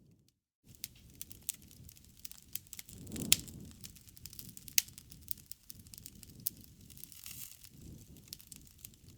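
Wood fire burning, its logs crackling with irregular sharp pops and snaps over a low rumble of flame. Two louder pops stand out, about three seconds in and near five seconds. The sound drops out for half a second right at the start.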